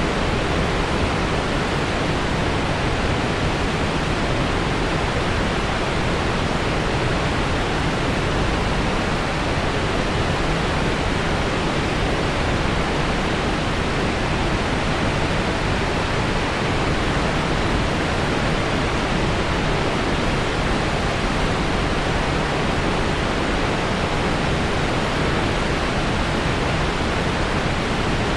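Waterfall: water falling and splashing in a continuous, even rush with no breaks.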